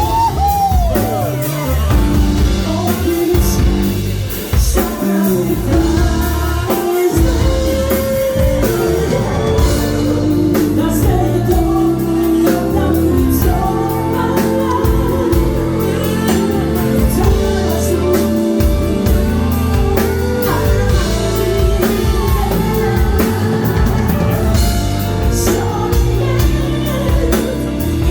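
A woman singing live with a backing band, drums and guitar under the vocal.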